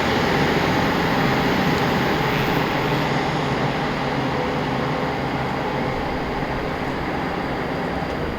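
A train running along the track: a steady rumble and rail noise that slowly fades as it moves away.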